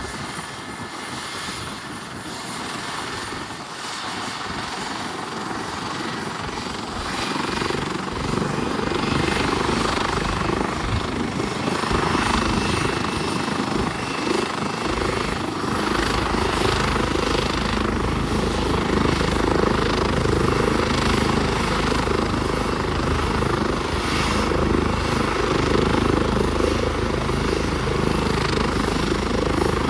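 Helicopter engine and rotor running up, growing louder over the first ten seconds. From about halfway a steady low rotor beat sets in.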